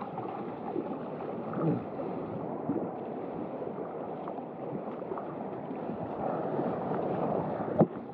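Water rushing and splashing around a waveski being paddled in surf, with one sharp knock near the end.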